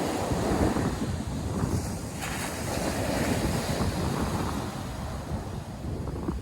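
North Sea surf, a steady wash of breaking waves with a brighter surge about two seconds in, and wind buffeting the microphone.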